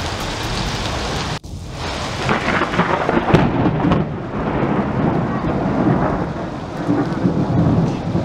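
Heavy rain pouring down with thunder rumbling through it. A short break comes about a second and a half in, then the thunder swells, loudest a few seconds in.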